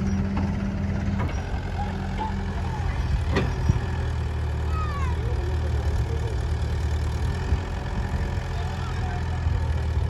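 Diesel engine running steadily at low revs, with a sharp knock about three and a half seconds in.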